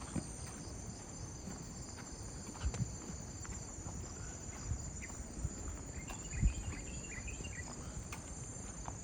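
Steady high-pitched chorus of crickets and other insects, with a few soft footfalls on the path.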